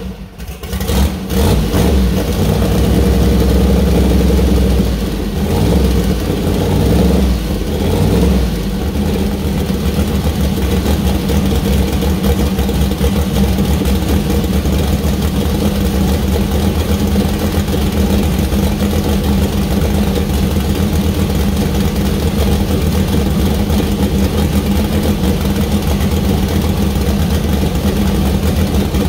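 Newly built 427-cubic-inch turbocharged LS V8 with a solid-roller camshaft running on its first start-up: a stumble in the first second, a few seconds of higher, uneven revs, then a steady idle from about nine seconds in.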